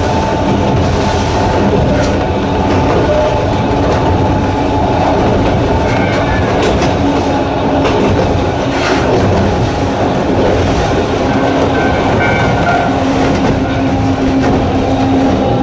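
Narrow-gauge electric train with nose-suspended traction motors running: a steady rumble with a motor hum and a few clicks from the wheels on the rails.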